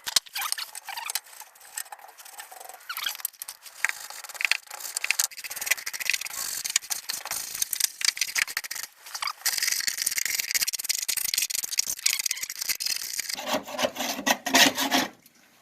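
Rustling, scraping and rattling of packaging as new shock absorbers are unpacked and handled, with many small clicks. It grows busier in the second half, with the loudest, fuller scrape about 14 seconds in.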